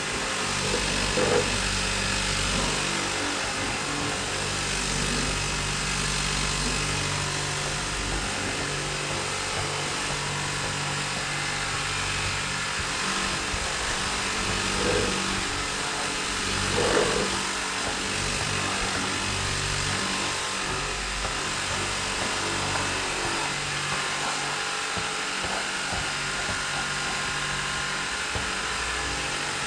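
Kobalt 600 psi battery-powered pressure sprayer running steadily, its small electric pump humming under the hiss of the water spray. Background music plays along with it.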